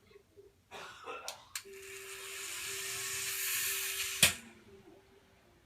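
Toy helicopter launched: a couple of clicks, then the whirring whoosh of its spinning rotor with a steady hum underneath, swelling for about two and a half seconds. It ends in a sharp knock a little after four seconds in.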